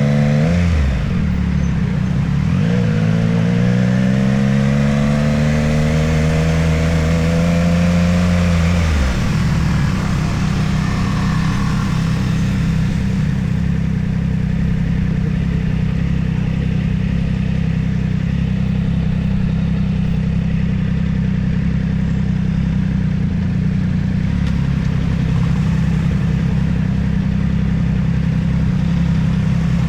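Motorcycle engine pulling hard, its pitch rising steadily for several seconds. About nine seconds in the throttle closes and the pitch drops. The engine then settles to a steady low-rev note for the rest, while the rush of wind dies away.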